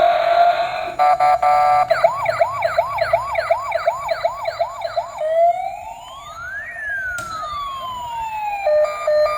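Electronic siren sound effect from a toy vehicle's sound chip, cycling through patterns: a short burst of fast beeps, then quick rising yelps about three a second, then one slow wail that rises and falls, and fast alternating beeps near the end.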